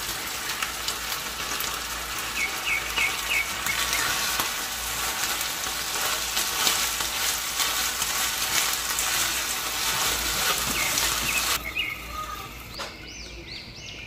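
Flaked canned tuna frying in a nonstick pan, sizzling and crackling densely while a wooden spatula stirs it. The sizzle drops off sharply near the end to a much quieter hiss.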